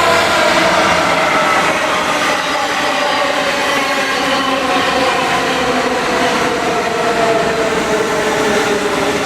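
A train running close by on the tracks: a loud, steady rumble with a whine of several tones that slowly falls in pitch.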